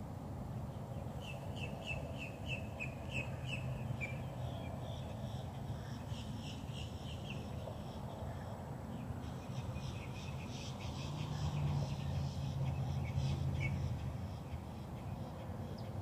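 Birds calling in quick runs of short, repeated chirps, over a steady low rumble that grows a little louder past the middle.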